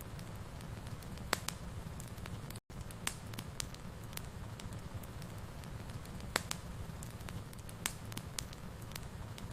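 Wood fire crackling: a steady low rumble with scattered sharp pops and snaps. A split-second gap of silence about two and a half seconds in.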